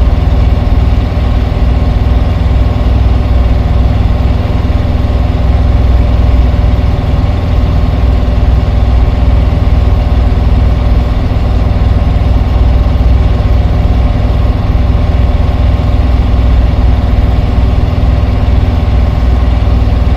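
A van's engine running steadily on the drive: a loud, constant low hum with a few steady tones above it.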